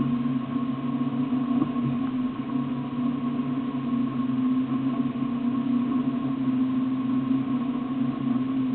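Off-road 4x4's engine idling with a steady low hum, picked up by a camera mounted on the vehicle's body.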